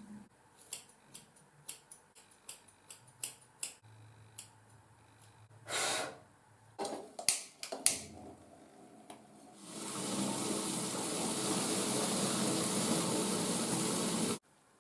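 A string of light clicks and knocks, then water running steadily from a tap for about five seconds before it stops abruptly.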